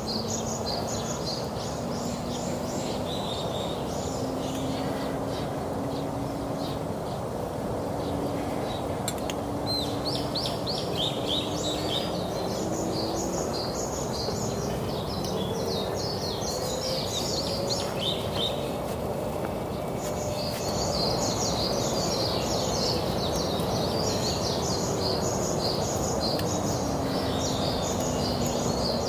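Birds chirping busily and continuously, with a short lull about two-thirds of the way in, over a steady background hum.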